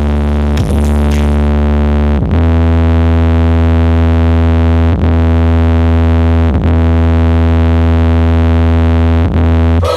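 A loud, deep sustained synthesizer bass tone played through a large sound system, held steady with brief dropouts every couple of seconds.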